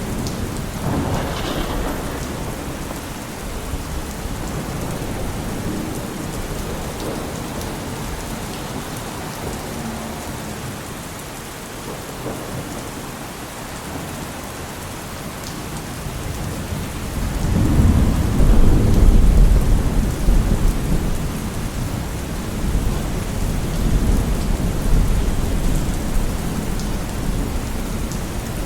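Steady heavy rain, with a brief swish just after the start. A low rumble swells up about two-thirds of the way through and then fades, with a smaller one soon after.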